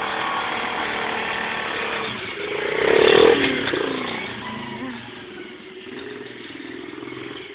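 Small 50cc four-stroke pit bike engine revving, swelling to its loudest about three seconds in and then falling away and fading: revved against the brake and kicked into first gear to launch.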